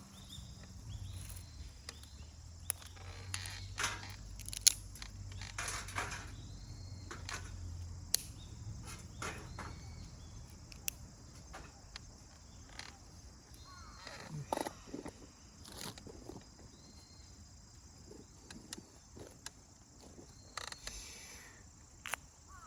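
Steady high-pitched trilling of crickets, with scattered clicks, knocks and footsteps of someone moving about and handling things, and a low hum that fades out about eight seconds in.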